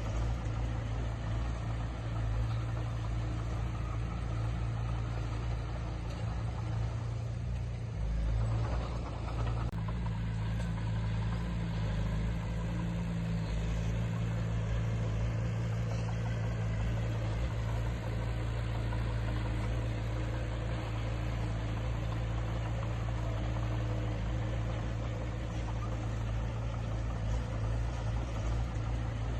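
Heavy earthmoving machine's diesel engine running steadily at a low, even pitch. There is a brief swell in level about eight seconds in and a short sharp click just under ten seconds in.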